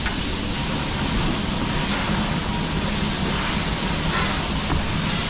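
Steady machine running noise: a constant low hum under an even hiss.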